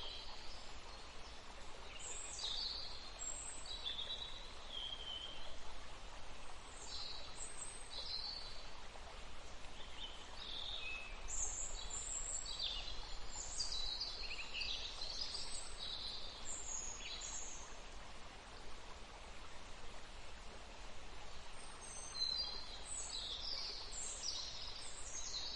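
Many small birds chirping and twittering over a steady rush of flowing water, with a lull in the birdsong about two-thirds of the way through.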